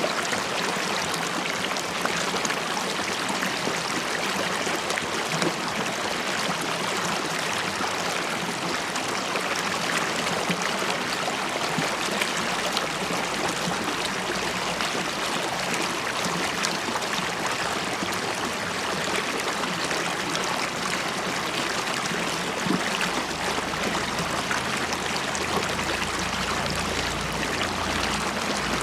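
River water running and bubbling over rocks: a steady, even rush.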